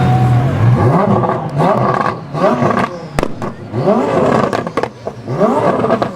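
Modified car engine idling, then revved in a series of short throttle blips, each note rising and falling away, with sharp exhaust pops and cracks between the revs.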